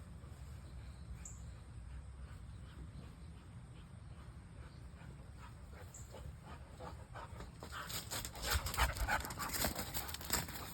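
A dog on the hunt, breathing hard in a quick run of short noisy bursts that starts about seven seconds in and is loudest near the end.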